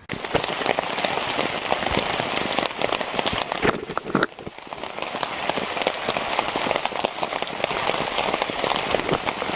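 Heavy rain falling steadily, a dense patter of close drops striking a surface nearby.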